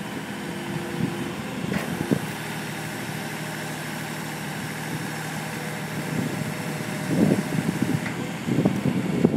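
Skip loader truck's engine running steadily with a low hum, and louder irregular sounds over it near the end.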